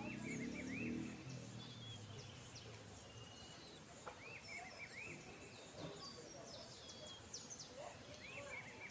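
Birds calling in the open: one bird repeats a short phrase of three or four quick arching whistled notes about every four seconds, three times, among scattered higher chirps, over a steady high-pitched hum.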